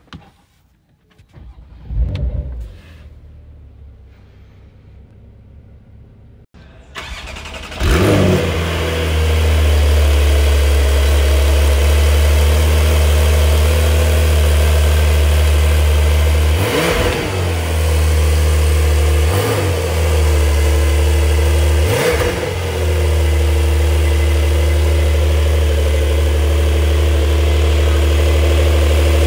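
Porsche 992 911 Carrera's 3.0-litre twin-turbo flat-six starting with a flare about eight seconds in and settling into a steady, low idle. Three short throttle blips follow, each falling back to idle, heard from behind the car at the exhaust tips.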